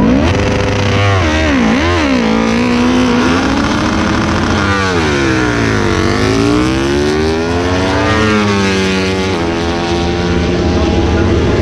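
Several MotoGP racing motorcycles revving hard and passing at once. Their engine notes overlap, climbing and dropping in pitch as they go by.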